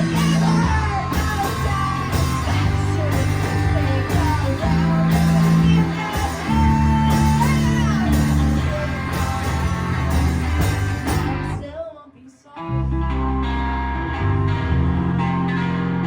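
Live rock band playing a guitar-driven song, with a melodic line gliding over sustained bass notes. About three-quarters of the way through, the band stops dead for under a second, then comes crashing back in.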